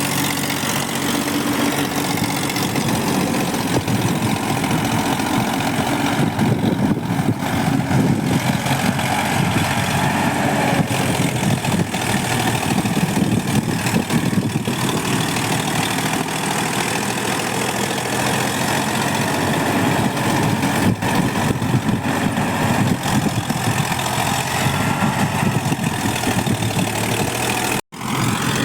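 Tractor engine running steadily without revving, its note holding even throughout, with a brief break about a second before the end.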